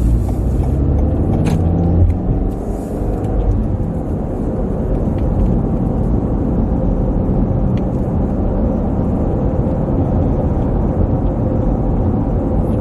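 Car running on the road, heard from inside the cabin: a steady low rumble of engine and tyre noise, with one short click about a second and a half in.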